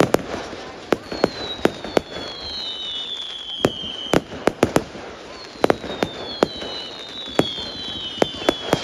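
Fireworks going off: sharp bangs every second or so, with several whistles that fall slowly in pitch, overlapping, and the bangs coming quicker near the end.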